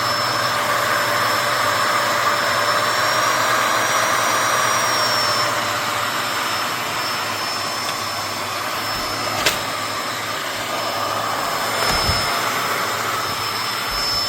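Eureka PowerSpeed NEU202 upright vacuum cleaner running steadily with a high whine, whose pitch rises slightly for a couple of seconds about a quarter of the way in. A single sharp click comes about two-thirds of the way through.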